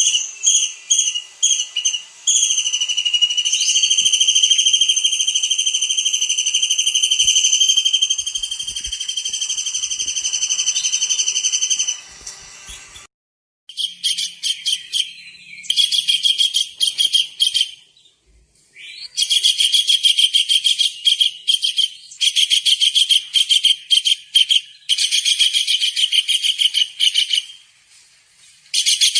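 Tengkek udang (kingfisher) calling in a high-pitched, energetic 'gacor' manner. It starts with a few short notes, then gives a long steady shrill trill of about ten seconds. After a brief gap it switches to rapid pulsed trills in bursts of several seconds each.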